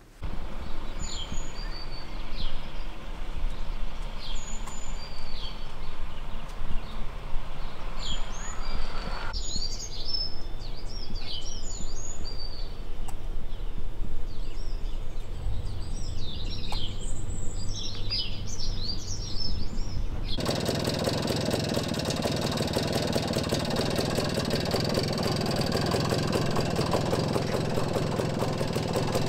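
BSA Bantam B175's 175 cc single-cylinder two-stroke engine running, with birds chirping over it. About two-thirds of the way through the engine sound becomes fuller and louder and the birdsong drops out.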